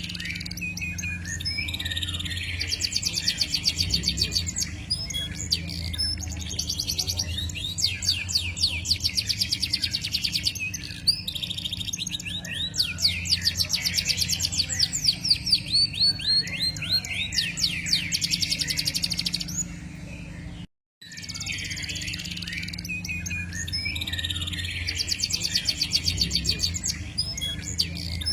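A songbird singing long, fast trills and rolls of rapidly repeated notes over a steady low hum. The recording cuts out briefly about 21 seconds in and then starts again from the same song.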